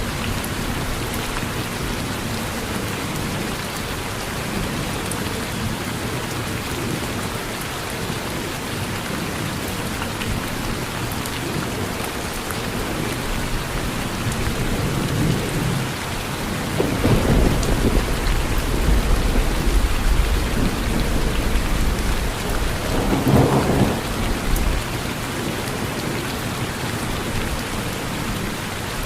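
Steady rain falling, with a low rumble of thunder that builds a little past halfway, swells twice and dies away a few seconds before the end.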